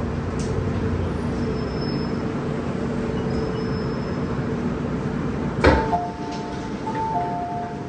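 Interior running noise of an MTR M-Train electric multiple unit, a steady hum and rumble. About two-thirds of the way in there is a sharp knock, followed by a two-tone electronic chime, high then low, that sounds twice.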